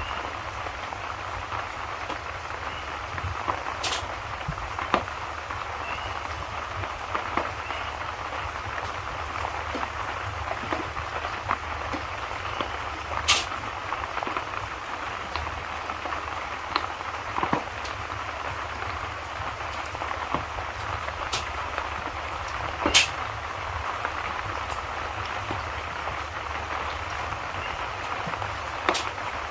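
Steady rain, with a low rumble underneath and scattered sharp pops and crackles from a wood fire, a few of them louder.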